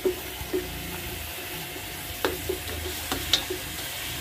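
Pork pieces frying and sizzling in soy sauce in an aluminium wok, stirred with a spatula that scrapes and knocks against the pan several times, the loudest knock about three seconds in.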